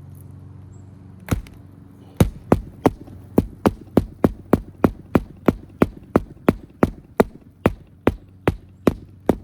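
Roofer's magnetic shingle hatchet driving roofing nails: about twenty sharp, even hammer blows at roughly three a second over a steady low hum. The first blow lands alone about a second in and the rest follow from about two seconds in.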